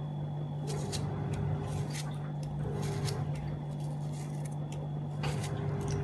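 A knife cutting into a frozen, still-hard tomato: a series of short, crisp crunching scrapes at irregular intervals, with a low steady hum underneath.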